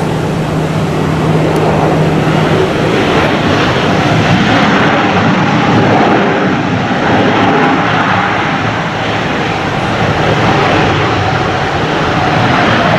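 Jet engines of an Asiana Airlines Boeing 777-200ER, a loud steady roar with a humming tone in it that sinks slightly in pitch near the end.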